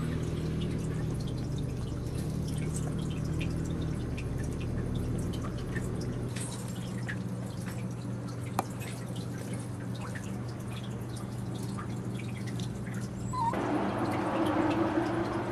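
Maltese puppies making small wet clicks and smacking sounds over a steady low hum, with one sharper click about halfway and a louder, noisier stretch near the end.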